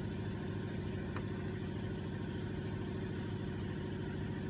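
Smoke tester's pump running with a steady low hum, pushing smoke into a vacuum-line circuit that has a cracked, leaking plastic line.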